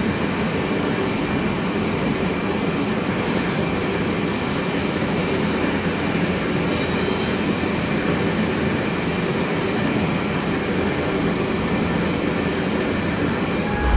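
Vertical lathe running: a steady mechanical noise with a few faint, steady high-pitched tones.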